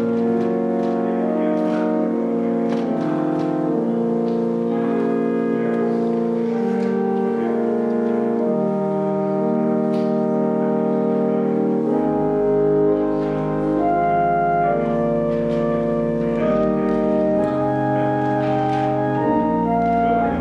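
Organ music: slow, held chords, with deep bass notes coming in about twelve seconds in.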